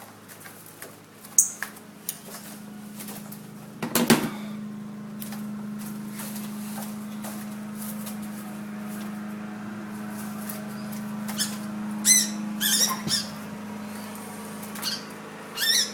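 Scattered knocks and scuffs in a small garage, with a few short high chirps from a trapped bird about twelve seconds in, over a steady low hum.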